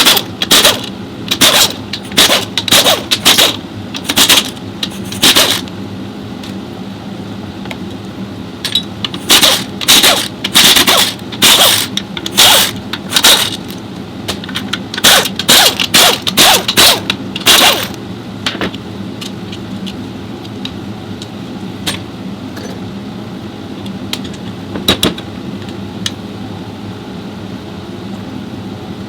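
Impact wrench run in short bursts of about half a second, again and again for the first 18 seconds or so, as bolts on a Nissan CVT transmission case are undone; after that only a steady workshop hum with a few light clicks.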